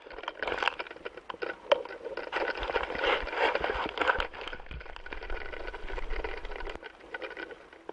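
Irregular crackling and clicking over a noisy hiss on the soundtrack of astronaut video footage, with a low rumble joining it through the middle stretch.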